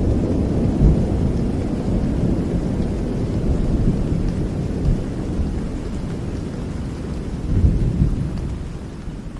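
Steady rain with a deep, rolling rumble of thunder that swells briefly about eight seconds in, then the whole sound slowly fades toward the end.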